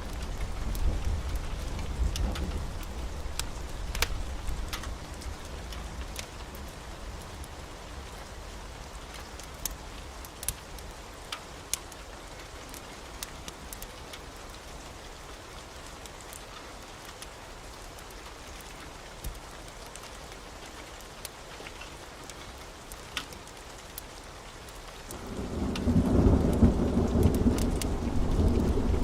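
Steady rain with scattered sharp ticks of drops. A low thunder rumble fades away over the first few seconds, and about 25 seconds in a loud, deep thunder rumble swells up and carries on.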